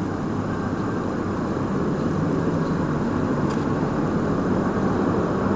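Steady low rumble of a running vehicle engine with road noise.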